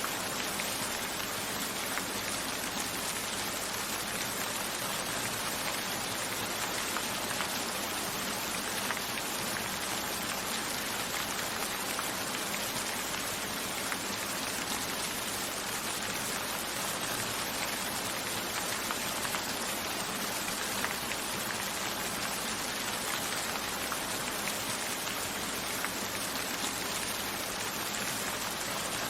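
Steady rain falling, with individual raindrops striking a window.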